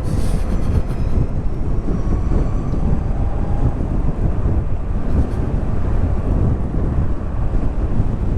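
Wind rushing over the microphone while riding an electric motorcycle at road speed, a steady rumble with little engine sound. About a second in, a faint whine rises in pitch for a couple of seconds, as from the electric drive under acceleration.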